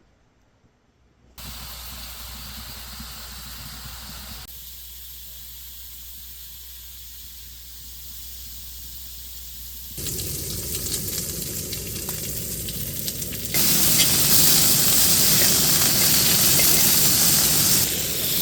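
Food sizzling as it cooks, a steady hissing that jumps in loudness at several sudden cuts and is loudest in the later part.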